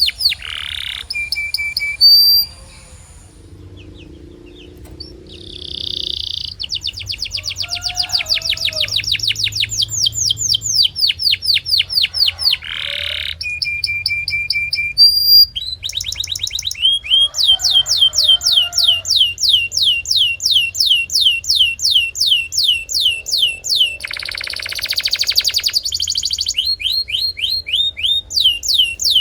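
Canary singing: long rolls of rapid, repeated high notes that each sweep downward, several a second, broken by short held whistled notes. There is a quieter pause a few seconds in.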